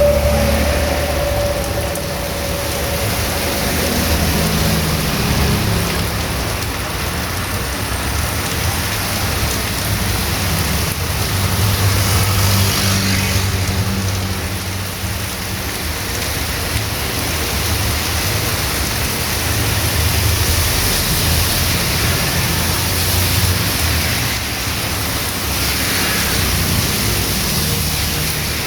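Heavy rain falling steadily on a street, with motor vehicles passing on the wet road; an engine hum fades out in the first couple of seconds and further engine sounds pass about a third of the way through and again later.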